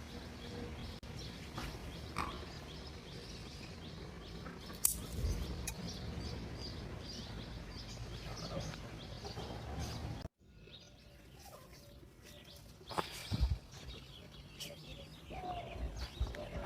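Free-range chickens: chicks peeping and hens calling in short chirps over a low rumble of wind noise. About two-thirds of the way in the sound cuts out for an instant, and the chirping carries on over a quieter background with a few light knocks.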